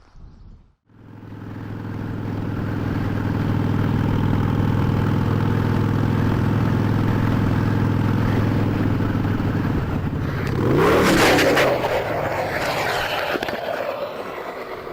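Motorcycle engine running at a steady pitch. About ten seconds in, a sudden loud, harsh noise lasts a couple of seconds, then dies down.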